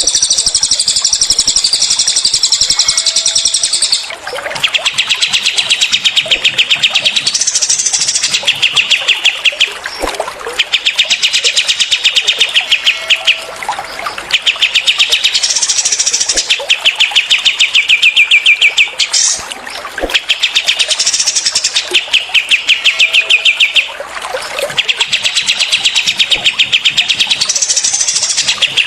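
Small songbirds, cililin and kapas tembak, singing fast rapid-fire trills ('tembakan'): a phrase of evenly pulsed notes lasting a few seconds, repeated about six times, with shorter, higher rapid notes in between.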